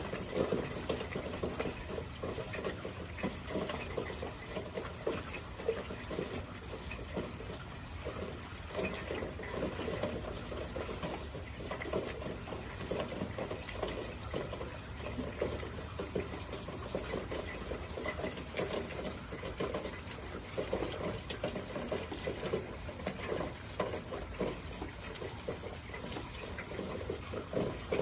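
Water running and splashing, a steady burble that flickers irregularly.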